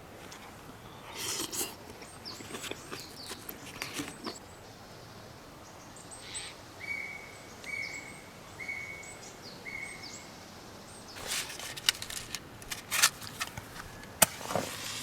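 Scattered rustling and clicking handling noises, loudest in a cluster near the end. In the middle a bird calls four short, even whistled notes, about one a second.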